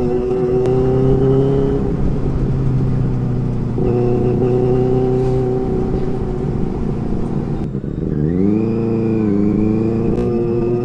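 Benelli 600i's inline-four engine running at steady revs on the move, then revving up quickly about eight seconds in before settling again.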